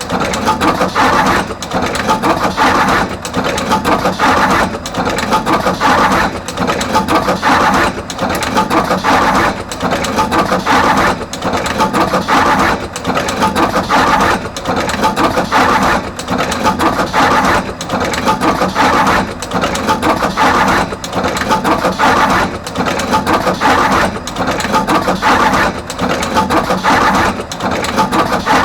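Artos CR22 automatic wire cut, strip and crimp machine running continuously, crimping terminals on both ends of each wire. A steady mechanical clatter repeats in even cycles of about one every second and a half.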